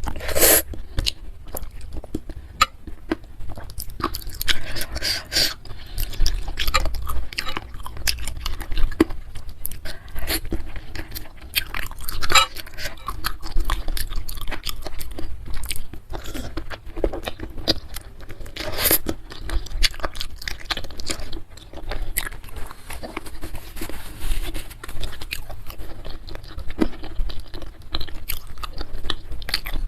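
Close-miked chewing and biting of a spicy bakso meatball soup with soft chicken feet and noodles, with many irregular crunches.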